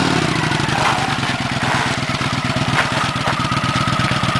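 Kawasaki Vulcan Classic XL's V-twin engine idling steadily with an even, rapid pulse.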